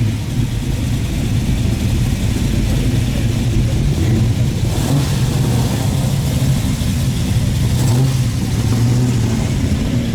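A car engine running at a steady idle, a low hum that holds throughout.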